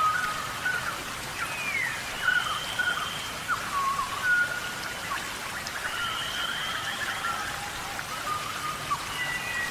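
Steady rain falling in a tropical rainforest, with repeated whistled animal calls over it: held notes and falling glides every second or two.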